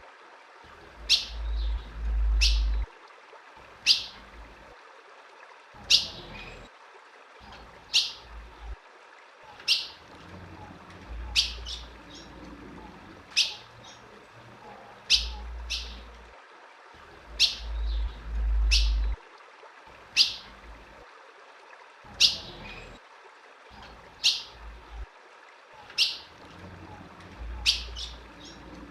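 Female ultramarine grosbeak (azulão) giving short, sharp, high chip calls, repeated roughly every one and a half seconds, used to excite a male azulão. A low rumble comes and goes underneath.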